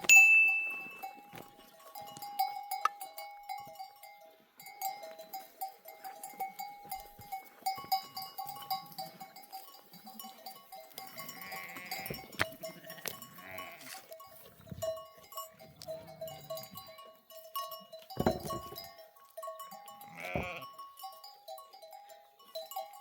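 A flock of sheep with a few bleats, over the continual clinking and ringing of their neck bells.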